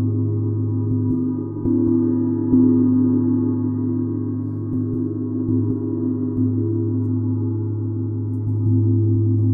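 A gong played softly, its low, sustained ringing tones renewed by gentle strikes every few seconds.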